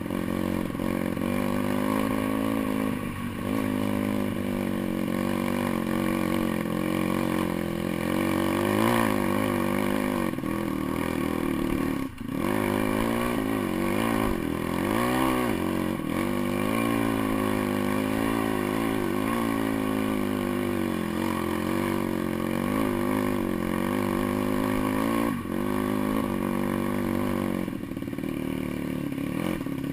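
Pit bike's single-cylinder engine riding off-road, revving up and down with the throttle. There are a few brief throttle drops, the sharpest about twelve seconds in.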